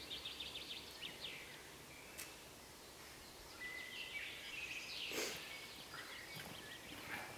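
Woodland ambience with small birds chirping, short falling chirps early on and again about four seconds in, and a brief rustling noise just after five seconds.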